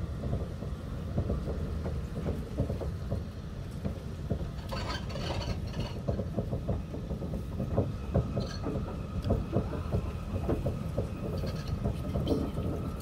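Heavy rain pattering on a vehicle's roof and windows over a steady low rumble, heard from inside the vehicle during a thunderstorm.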